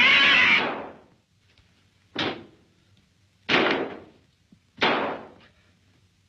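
Four loud, sudden crashes or bangs, each ringing out and dying away over about half a second; the first, at the start, is the longest and loudest, and the others come about a second and a half apart.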